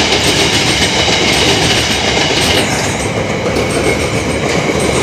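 Loaded coal train passing at close range: a loud, steady rumble and rattle of wagon wheels on the rails, with a thin metallic ringing above it.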